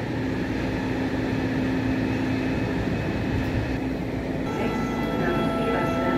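Electric train running through the station: a steady rumble with a low hum. A little past the middle, several steady whining tones set in.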